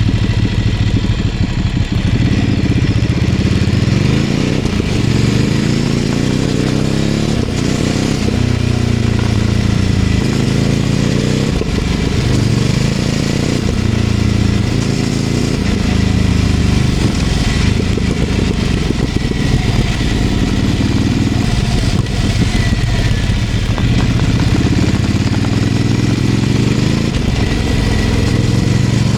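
Ducati Scrambler 800's air-cooled L-twin engine through a LeoVince LV-10 aftermarket exhaust, riding at low city speed. The engine note repeatedly climbs and drops with throttle and gear changes in the first half, then runs steadier.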